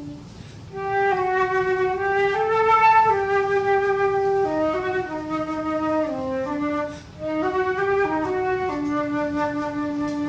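Solo flute playing a slow melody note by note, pausing briefly twice, near the start and about seven seconds in, then settling on a long held low note near the end.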